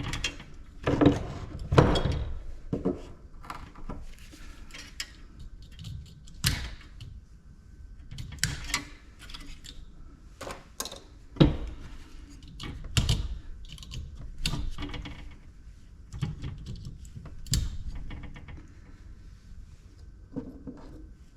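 Irregular metal clanks, knocks and rattles of hand tools and scrap parts being handled while an ice maker is pulled apart, with a dozen or so sharp strikes spaced unevenly.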